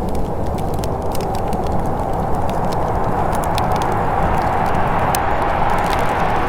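Wood fire crackling in a fireplace, with scattered quick sharp pops over a steady low rushing noise.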